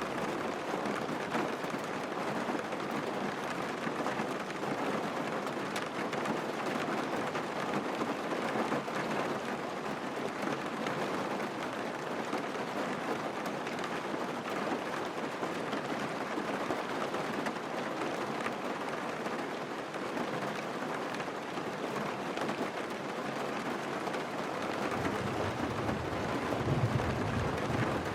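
Heavy rain beating steadily on a car's roof and windscreen, heard from inside the cabin while driving. A low rumble swells near the end.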